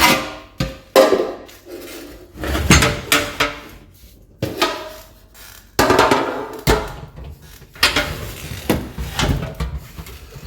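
Irregular knocks and clatters of kitchen containers and dishes being handled and set down on shelves, a few of them clinking with a short ring.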